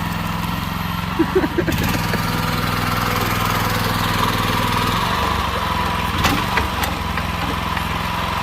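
Small gasoline engine of a towable backhoe trencher running steadily while the boom is worked, with a steady higher whine over it that grows stronger about two seconds in. A couple of sharp knocks come near the end.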